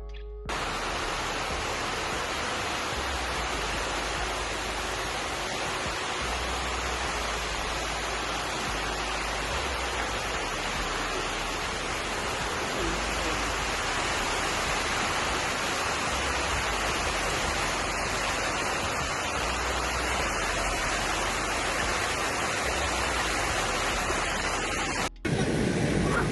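Hurricane rain and wind: a steady, loud rushing hiss with a low rumble of wind on the microphone. It starts abruptly just after the opening and cuts off suddenly about 25 seconds in.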